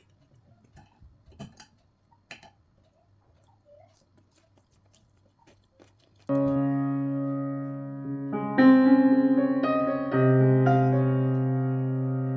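Faint scattered clicks for the first half, then piano music starts suddenly about halfway through, playing slow sustained chords that change every second or two.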